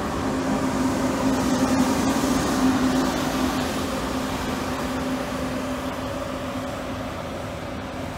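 Frecciarossa ETR 500 high-speed electric train passing close by, with a steady hum over the running noise. It is loudest in the first few seconds as the power car goes by, then eases as the coaches follow.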